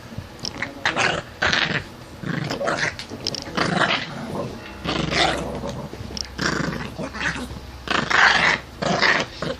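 Pet dog growling and snarling in a run of short bursts during rough play, loudest near the end; it is play growling, not real aggression.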